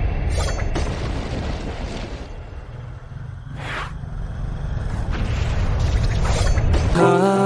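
Deep, heavy rumble of a rainstorm that sinks about halfway through and builds again. Electronic music starts near the end.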